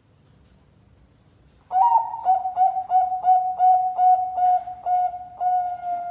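Zebra dove of the Thai-bred 'perkutut Bangkok' line cooing. About a second and a half in, it starts a fast string of about a dozen short, clear notes on one pitch, three or four a second, and closes on a longer held note.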